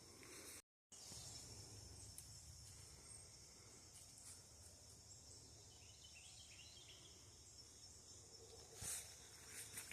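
Near silence: faint outdoor background hiss, broken by a short dead gap about a second in and a soft knock or step near the end.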